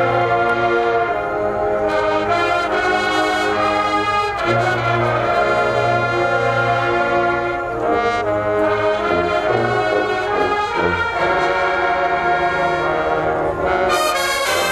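HBCU marching band brass section playing loud sustained chords, with trombones, trumpets and low brass, the notes changing every second or two.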